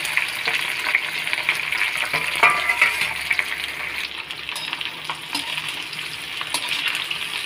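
Raw jackfruit pieces sizzling and crackling as they fry in hot mustard oil in a kadhai on high flame, with a single metallic clank about two and a half seconds in.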